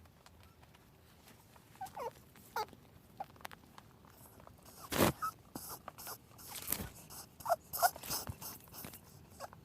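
Rabbit making short squeaks that fall in pitch, a few scattered through, with two sharp knocks about halfway through.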